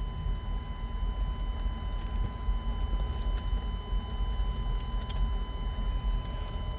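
Idling truck engine, a steady low rumble with a faint steady high whine over it.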